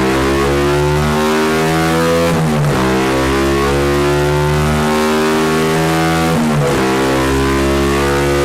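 Honda Monkey 125's single-cylinder four-stroke engine, fitted with a carburettor kit and free-flowing exhaust, running hard under load on a rolling-road dyno. The note drops and climbs again twice, about two and a half seconds in and again near six and a half, as gears are changed.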